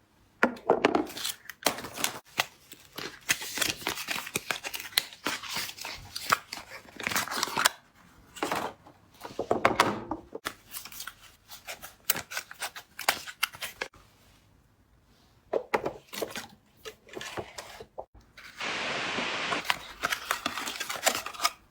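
Soap packaging being handled, cut and torn open: a run of sharp crackles, clicks and rustles, a short lull about two-thirds of the way through, then a longer continuous tearing rustle near the end.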